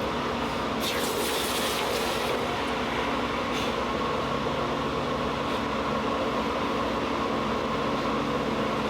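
Blacksmith's forge running with a steady rushing roar and low hum, with a brief hissier surge about a second in.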